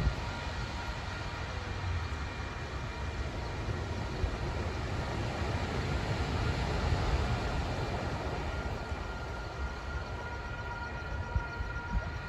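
Amtrak passenger train approaching on the rails, a steady low rumble that grows louder to about seven seconds in, then eases slightly.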